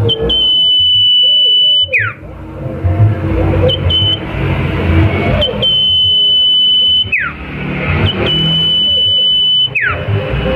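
Sirtu songbird singing its 'nyipow' call: a long, steady, high whistle held for a second and a half or more and ending in a sharp downward slur. It comes three times, with short chips in between.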